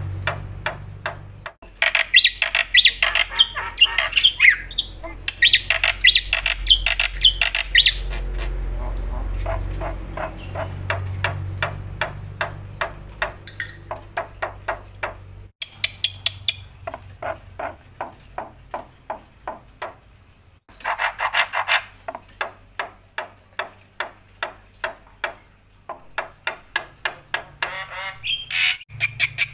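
Black-winged starling (jalak putih) singing loudly: a long run of sharp, rapidly repeated notes broken by dense bursts of harsh squawky phrases, about two seconds in and again about twenty-one seconds in. A low hum sits under the first half.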